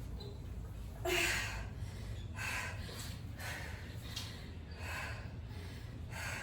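A woman breathing hard from exertion, with a forceful breath about every second and a bit, the strongest about a second in, over a steady low rumble.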